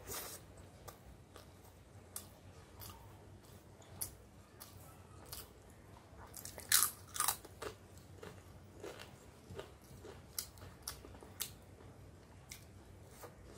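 Eating sounds: moist chewing of rice and dal with frequent short mouth clicks, and a cluster of loud, sharp crunches about halfway through as a fried papad is bitten and chewed.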